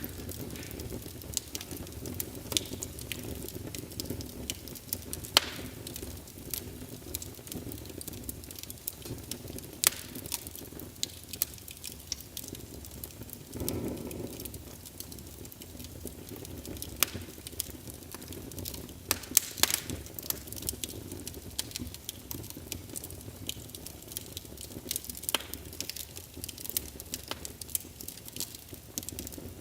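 Fire burning in a fireplace: a steady low rush of flame with frequent, irregular sharp crackles and pops, and a brief swell of flame noise about halfway through.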